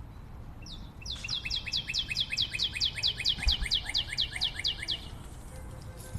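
A songbird singing one fast trill of repeated downslurred notes, about five a second. It starts about a second in and stops about a second before the end.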